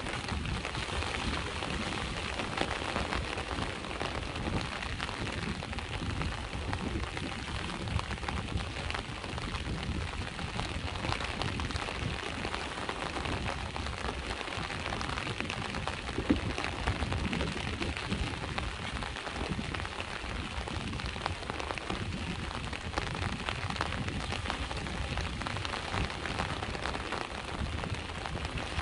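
Steady rain falling on a hard surface, with dense small drop hits, over a low continuous rumble of sea waves.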